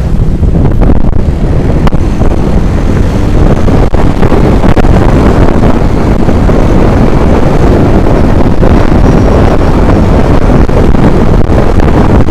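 Heavy wind buffeting the microphone while on the move: a loud, steady, low rumbling roar that fills the sound.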